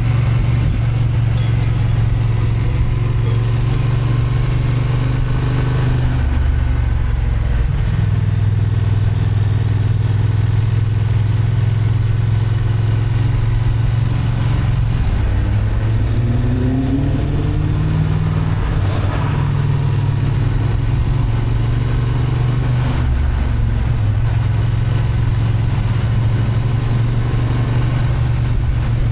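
Honda XL750 Transalp's 755 cc parallel-twin engine running under load on an uphill ride, heard from the bike. The engine note holds steady but shifts several times, about six seconds in, between about fifteen and eighteen seconds, and again near twenty-three seconds, as the throttle and gears change.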